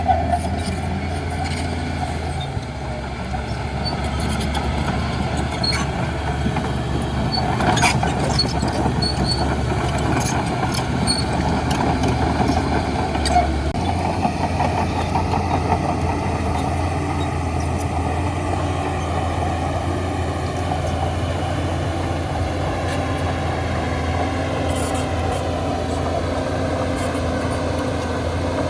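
Heavy diesel engine of a Shantui DH17C2 bulldozer running steadily under load, with a couple of short clanks. The engine's low drone shifts about halfway through.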